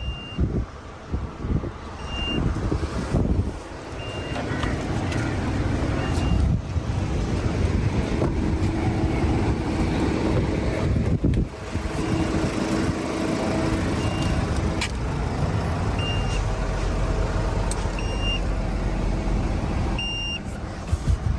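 Short high electronic beeps repeating about every two seconds, over rumbling and handling noise.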